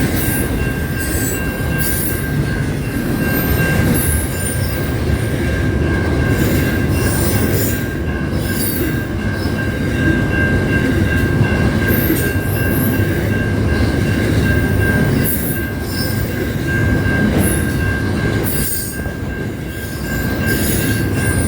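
Train running on the rails, a steady rumble with a continuous high-pitched wheel squeal and repeated shorter, higher squeals over it.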